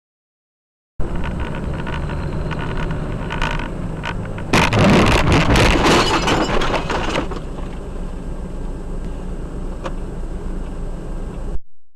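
Car driving with a steady low road and engine rumble, heard from inside the vehicle on a dashcam; about three and a half seconds in comes a loud collision, a clatter of impacts and crunching that lasts a couple of seconds, before the rumble carries on and cuts off abruptly.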